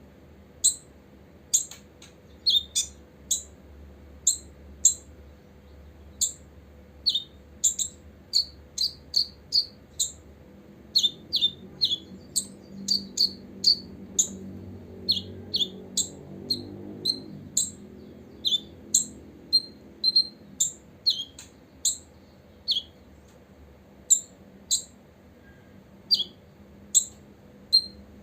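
Copper-throated sunbird calling: a long run of short, sharp, high chirps, irregularly spaced at one to three a second.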